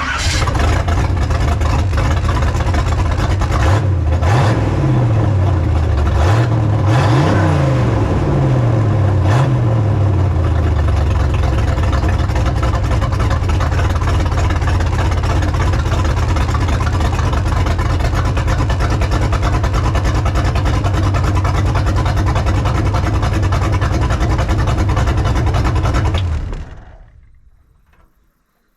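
1929 rat rod's engine on freshly cleaned Stromberg carburettors fires up, is revved several times a few seconds in, then idles steadily and is shut off near the end. It runs clean, the flooding cured.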